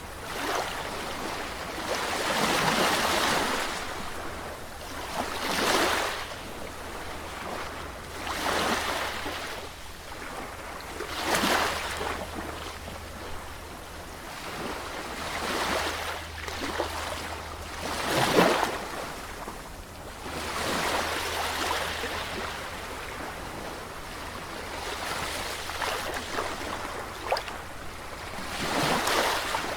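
Sea waves washing in, one surge of surf after another every few seconds, each swelling and falling away, the biggest about eighteen seconds in.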